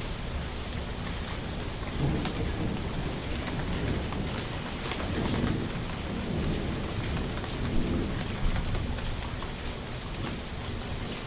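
Steady rain hiss with a low rumble of thunder swelling and fading from about two seconds in until about eight seconds in.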